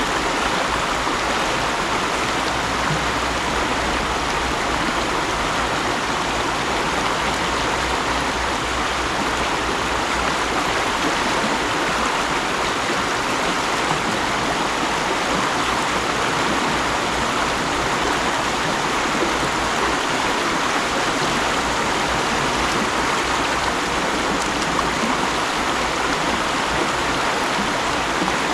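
Mountain stream rushing and splashing over rocks, a steady, even water noise.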